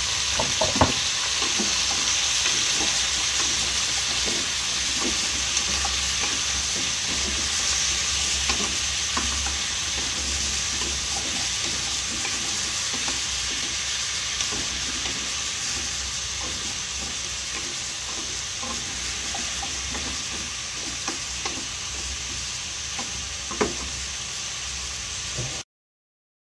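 Chicken, boiled eggs, carrots and whole small onions sizzling steadily in a nonstick frying pan, with a wooden spatula stirring and clicking against the pan now and then. The sizzle cuts off suddenly near the end.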